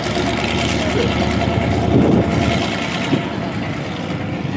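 A car engine idling steadily, with a short louder swell about two seconds in.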